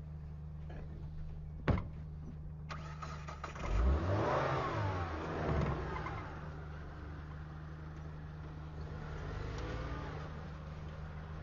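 Car engine revving for about two seconds, starting about four seconds in, then running on more quietly. A single sharp click comes shortly before.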